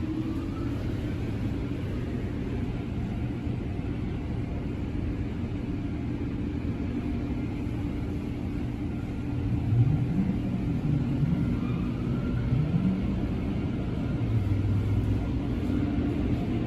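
Automatic car wash tunnel equipment running: a steady low rumble, with two short rising hums about ten and twelve seconds in.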